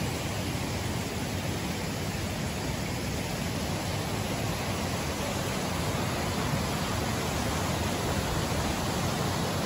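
Waterfall on a mountain stream, a steady rush of falling water.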